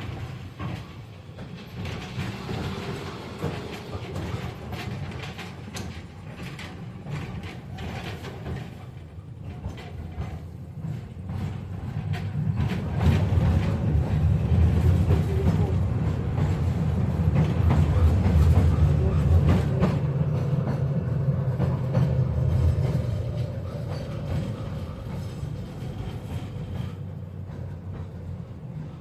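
KTM-5M3 tram running along the rails, heard from inside the car: a low rumble of wheels on track with some clacking. It swells louder for about ten seconds midway, with a faint whine in the loud stretch.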